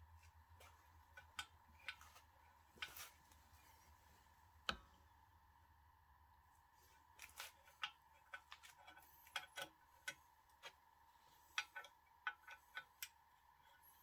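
Faint, irregular clicks and light taps of small screws and metal parts being loosened and handled on a model locomotive's body, over a faint steady tone.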